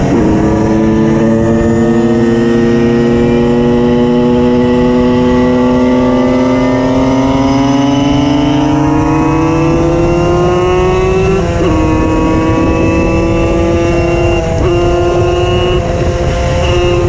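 Tuned Simson moped's 90 cc reed-valve two-stroke single running under load: it changes gear at the start and then pulls with its pitch rising slowly. About 11 seconds in it changes gear again and then holds a steady speed, with two brief lifts of the throttle. A second, lower engine drones steadily underneath.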